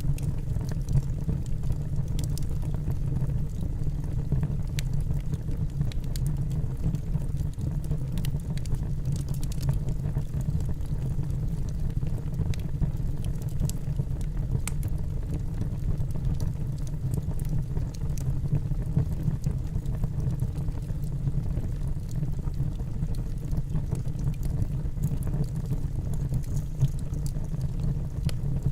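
Wood fire burning in a fireplace: a steady low rumble of the flames with faint, scattered crackles and pops from the logs.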